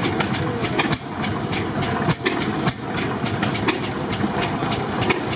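Antique stationary gas engines running, with many sharp, irregular clicks.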